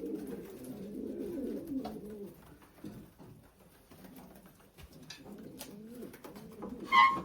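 Racing pigeons cooing in the loft, with scattered light knocks and taps. Near the end comes a brief, loud, high-pitched squeak.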